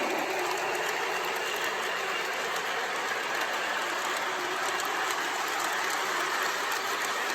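Long model train running at speed on its track: a steady rolling clatter of many wheels over the rails with fine rapid clicking.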